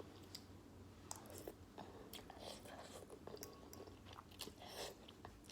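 Faint chewing of beef noodles, with scattered short wet mouth clicks.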